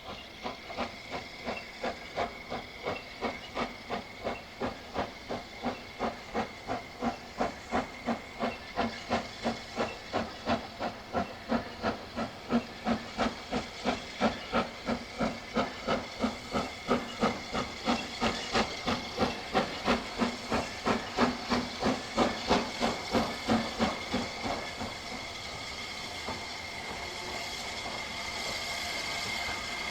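Steam locomotive working a train, its exhaust beating evenly at about two to three chuffs a second and growing louder. The beats stop about 25 seconds in, leaving a steady hiss of steam.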